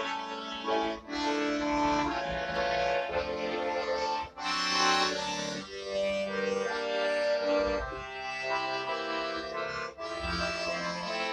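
Accordion playing a song's instrumental opening: sustained chords with a melody on top, the notes changing every second or so.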